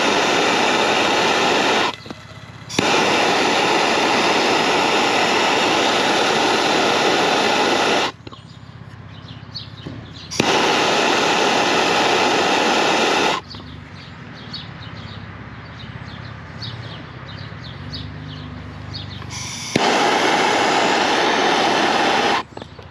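Handheld soldering torch flame hissing in four bursts of a few seconds each, switched on and off abruptly, as copper fittings are heated for sweat-soldering. Birds chirp faintly in the gaps.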